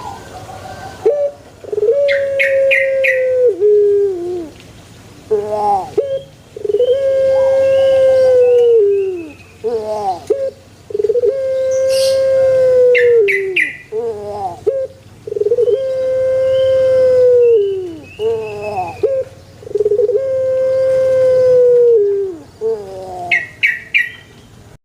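Puter pelung, a domestic Barbary dove (Streptopelia risoria) kept for its song, cooing repeatedly: five long, drawn-out coos about four seconds apart. Each coo is held on one note and drops at the end, and short higher chirps sound around a few of them.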